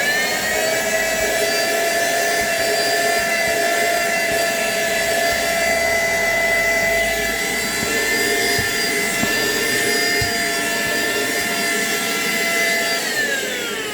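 Philco Premium handheld cyclone vacuum cleaner's motor switched on and running with a loud, steady whine, its motor fitted with a new carbon brush and shaft bearing. Near the end it is switched off and the whine falls in pitch as the motor spins down.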